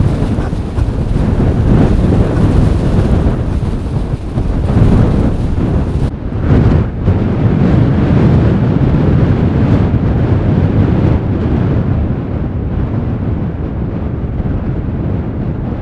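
Wind buffeting the microphone: a loud, gusting rumble. About six seconds in, the high hiss drops away suddenly while the low rumble goes on.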